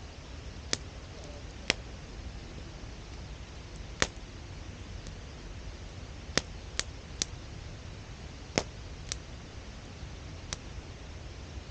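Wood campfire crackling, with about nine sharp, irregular pops over a low, steady rumble.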